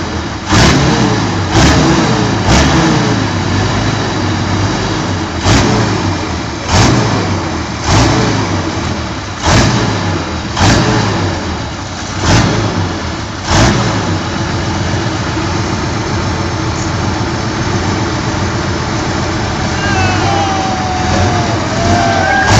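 Motorcycle engine revved in about ten quick blips, each one jumping up and falling back to idle, then left running steadily for the last several seconds.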